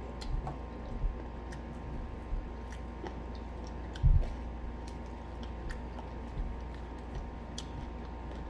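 Close-up chewing and biting into crispy fried chicken: scattered small crunches and mouth smacks, with one louder thump about four seconds in.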